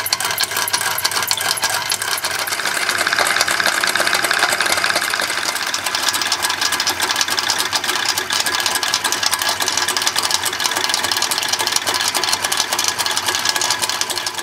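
Märklin waterfall toy accessory running under drive from a small electric motor through its belt and pulley, giving a fast, even mechanical clatter with a faint steady tone.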